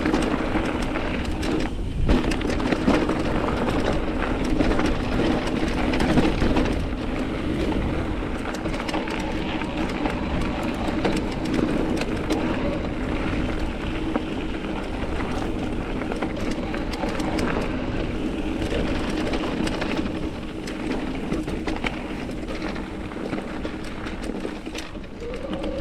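Mountain bike rolling over a rocky desert trail: tyre noise, clicks and rattles from the bike over rock, with a steady whine underneath.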